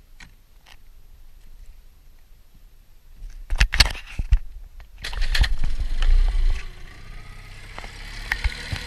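Several sharp knocks, then a loud low rumble, and a small outboard motor running steadily for the last couple of seconds.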